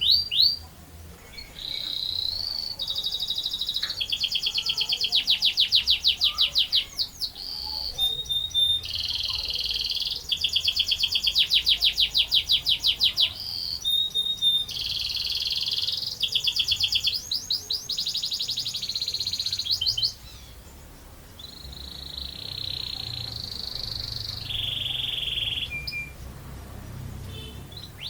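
Domestic canary singing in full voice, running long rolls of very fast repeated notes mixed with short held notes. The song softens a little after about twenty seconds.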